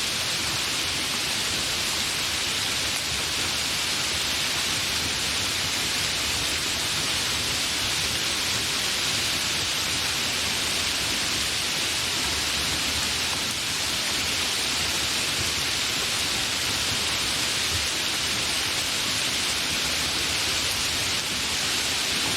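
Steady, fairly heavy rain falling, an even hiss with no thunder.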